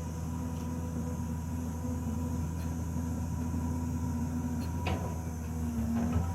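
Diesel engine of heavy road-building machinery running steadily, with a sharp knock about five seconds in and some clattering knocks near the end.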